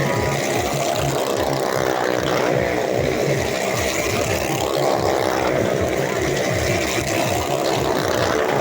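Motorcycle engine running steadily while riding, with a low, fast pulsing and no change in pace.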